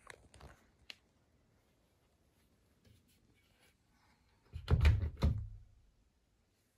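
A few light clicks and rustles, then a heavy double thunk about five seconds in: the porthole door of a Siemens Siwamat 6143 front-loading washing machine being pushed shut.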